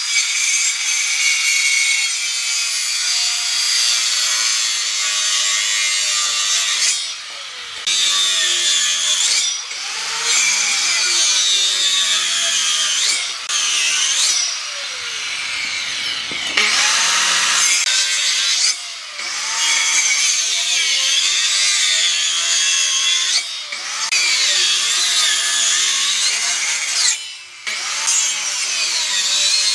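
A power tool cutting or abrading wood in a run of passes. Its motor pitch rises and falls as the load changes, and the noise drops out briefly every few seconds.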